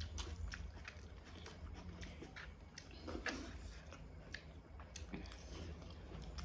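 A person chewing and eating a mouthful of rice and egg curry close to the microphone: soft, irregular wet mouth clicks and smacks, over a steady low hum.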